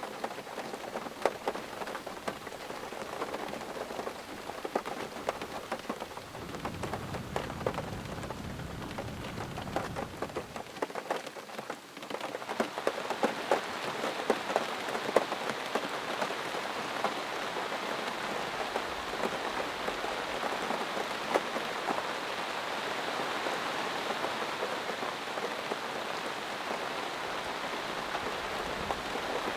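Heavy rain falling, thick with individual drop hits. A low rumble of thunder comes in about six seconds in and lasts a few seconds. About twelve seconds in, the rain becomes louder and fuller.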